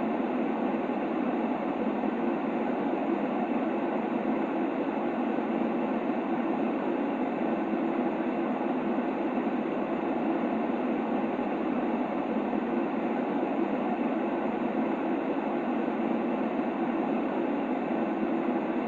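Steady, unchanging white noise of the kind played to lull a baby to sleep, muffled and rushing, with no high hiss.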